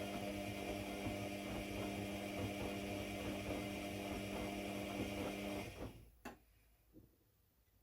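Steady electric hum of a running machine, which cuts off suddenly about six seconds in. Two short clicks follow.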